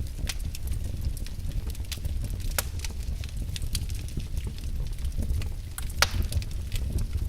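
Wood logs burning in a fireplace, crackling with scattered sharp pops over a low steady rumble; the loudest pop comes about six seconds in.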